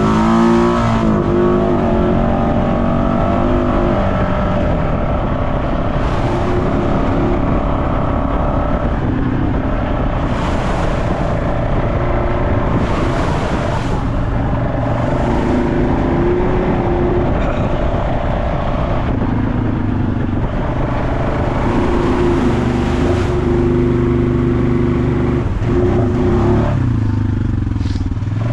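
Off-road vehicle engine running under throttle on a trail ride. The engine speed holds steady for stretches of a few seconds, then steps up or down again and again.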